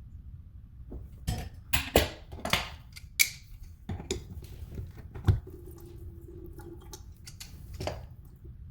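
Sharp metallic clinks and knocks of faucet parts and tools being handled during a Delta faucet repair, several in quick succession over the first half, then one more near the end.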